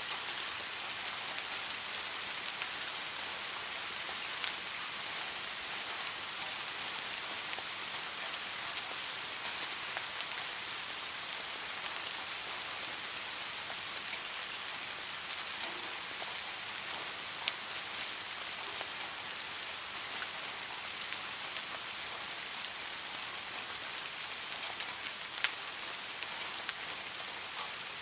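Steady rain falling, an even hiss with occasional sharper drops ticking close by.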